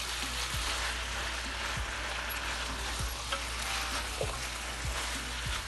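Beef and freshly added vegetables sizzling in a hot nonstick pan while a silicone spatula stirs them. The sizzle is steady, with a few faint taps.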